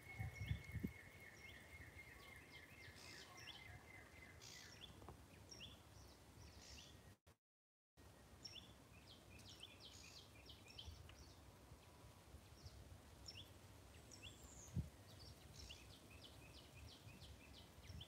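Faint, scattered bird chirps over a near-silent background, with a steady high thin tone during the first four seconds. The sound drops out for under a second about seven seconds in.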